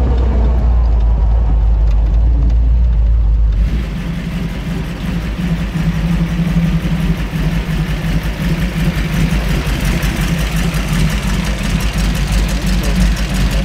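1929 Ford roadster hot rod's V8, fed by three carburettors, running with a heavy low rumble as the car drives. About three and a half seconds in, the sound changes to the engine idling steadily with an even, rapid exhaust pulse as the roadster creeps up the driveway.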